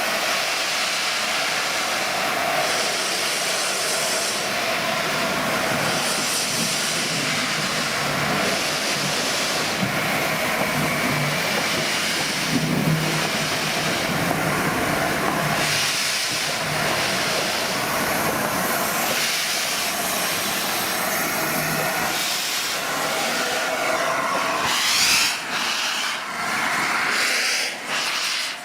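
LNER A4 Pacific steam locomotive moving off slowly under steam, with a steady loud hiss of steam that swells in pulses every second or two.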